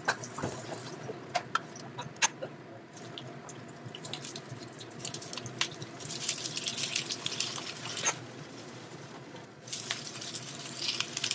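Hot oil sizzling and crackling in a nonstick wok as ginger slices and then whole prawns fry. A few sharp knocks of a wooden spatula on the pan come in the first couple of seconds. The sizzle dips for a moment and comes back suddenly near the end.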